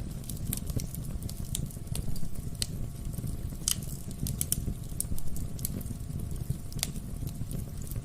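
Wood fire in a fireplace crackling, with irregular sharp pops and snaps over a steady low rumble of the flames; one louder pop a little before four seconds in.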